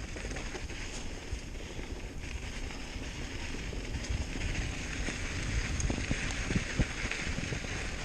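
Hardtail mountain bike riding a dirt forest trail: steady tyre noise over dirt and gravel with wind buffeting the microphone, and scattered knocks and rattles from the bike over bumps.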